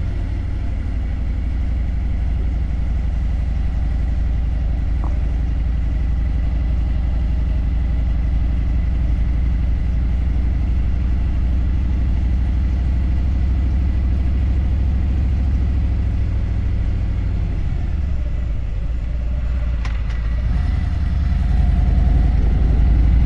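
Harley-Davidson motorcycle engine running steadily, getting louder about three-quarters of the way through.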